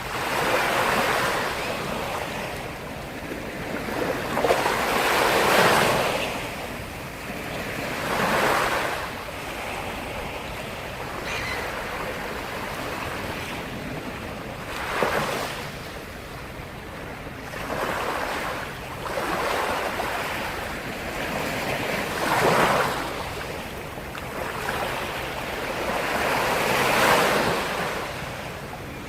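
Black Sea waves breaking on the shore: a steady wash of surf that swells into a louder surge every few seconds, about seven times.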